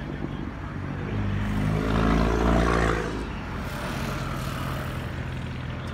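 A car engine rises in pitch to a loud peak about two to three seconds in, then drops back to a steady low running hum.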